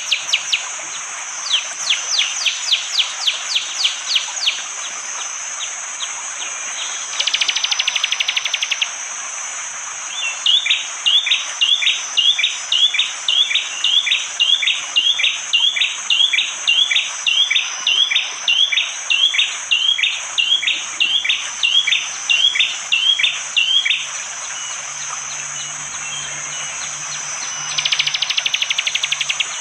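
Prenjak jali, a prinia, singing hard and sharp. It gives a quick run of short down-sweeping notes, then a fast rattling burst, then a long series of repeated hooked chirps at about two a second for some fourteen seconds, and another rattling burst near the end. Under it runs a steady high hiss of forest ambience.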